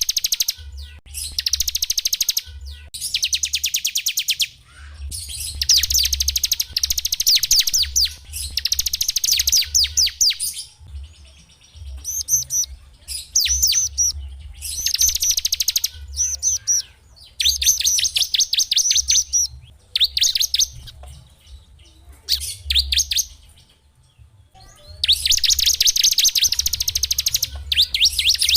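A small songbird singing loud, rapid trilled phrases of one to two seconds each, separated by short pauses.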